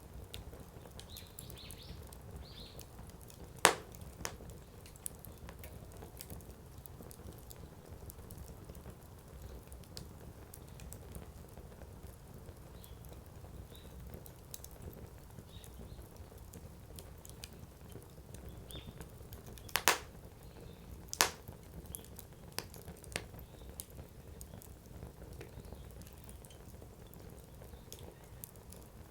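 Firewood burning in a campfire, with a low steady rumble of flames and scattered crackles. Sharp pops come as the wood bursts: a loud one about four seconds in, a close pair around twenty seconds in, and another a second after that.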